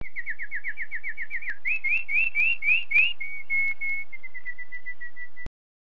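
A songbird singing a phrase of clear whistled notes: a quick run of falling notes, then a few slower rising ones, then a string of short level notes. The song cuts off suddenly near the end.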